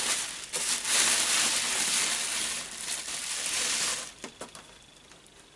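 Packaging being torn open and unwrapped by hand, with loud crinkling and rustling that stops about four seconds in, followed by a few light clicks as the item is handled.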